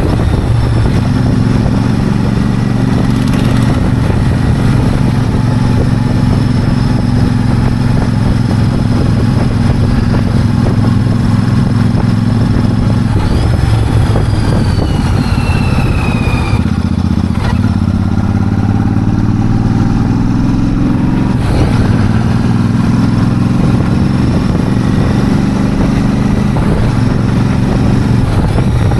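Royal Enfield Super Meteor 650's parallel-twin engine and exhaust running steadily; a little past halfway the note breaks briefly and then climbs for a few seconds before settling again, as with a gear change and acceleration.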